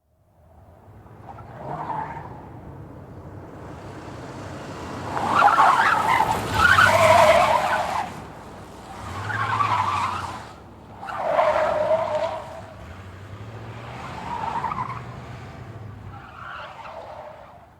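Hand file rasping on a corroded carbon motor brush in about six separate bouts of strokes, the loudest in the middle, over a faint low hum.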